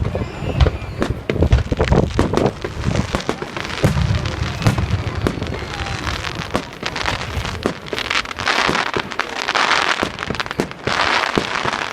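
Fireworks going off: a rapid string of bangs and deep booms, then, from about eight seconds in, two spells of dense crackling.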